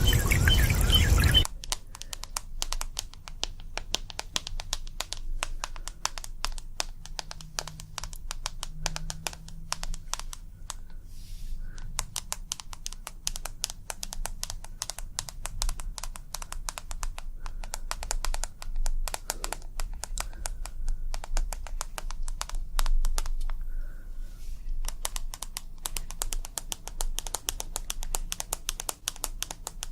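Water noise with birdsong cuts off abruptly about a second and a half in. It gives way to rapid, continuous tapping on a hard object, many light clicks a second, pausing briefly twice.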